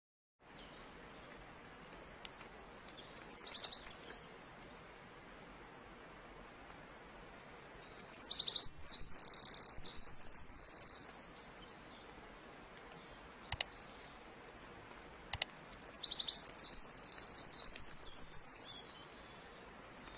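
A songbird singing in three bursts of high, rapid chirps and trills, the second and third phrases alike, over a faint steady hiss. Two sharp clicks fall between the second and third bursts.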